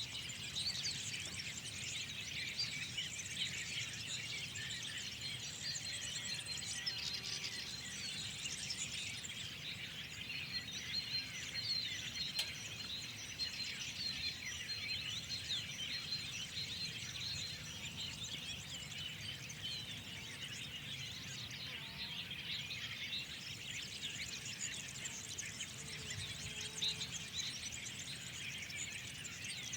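Many small songbirds chirping and singing at once in a dense, overlapping spring chorus of short high calls, over a low steady background rumble.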